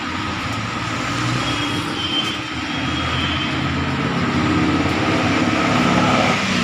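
Vehicle engine running through a newly fitted exhaust muffler, revved slowly and steadily higher over several seconds. This is a test of how the new exhaust sounds.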